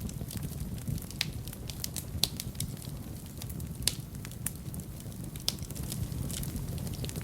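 Wood fire burning in a fireplace: a low steady flame rumble with irregular sharp crackles and pops, a few of them louder.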